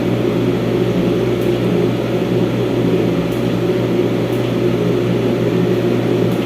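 Steady machine hum with several fixed tones, constant throughout with no pulsing or breaks.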